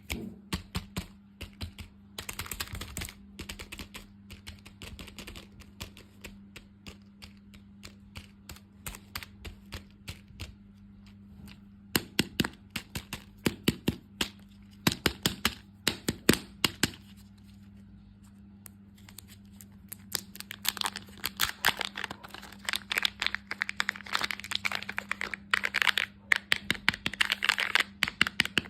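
Close-up handling of candy and plastic packaging: quick clicks and taps, with louder clusters of taps about halfway and denser crinkling and crackling in the last third, over a faint steady low hum.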